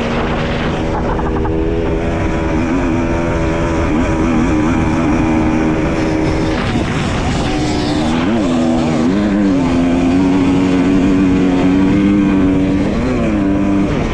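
Dirt bike engine running under way, its pitch holding steady for long stretches and dipping then climbing back a few times as the throttle is eased and opened again, over a broad rushing noise.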